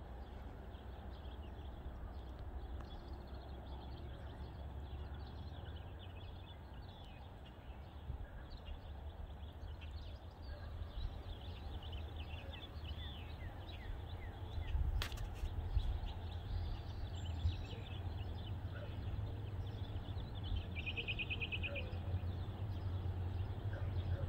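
Birds chirping and singing in many short calls, with a short buzzy trill about 21 seconds in, over a low rumble that grows louder toward the end. A single sharp click comes about 15 seconds in.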